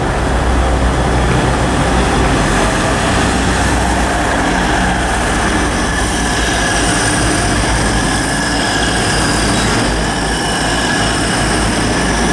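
Grand Central Class 180 diesel multiple unit passing through the station: a loud, steady rush of wheels on rail with a low rumble. A thin high whine joins about halfway through.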